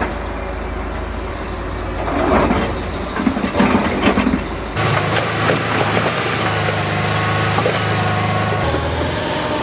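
Tracked excavator's engine running steadily, with a burst of rough clattering and scraping about two to four seconds in. Near the middle the engine note changes abruptly.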